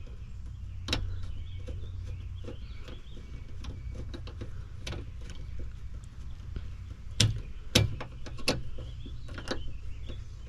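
Scattered small clicks and metallic knocks of screwdriver work on a dishwasher's panels as screws are backed out, with a few louder knocks between about seven and eight and a half seconds in, over a low steady rumble.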